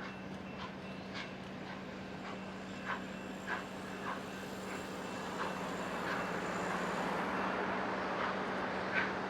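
Passenger train running, growing gradually louder, with a steady low hum and scattered, irregular clanks and knocks.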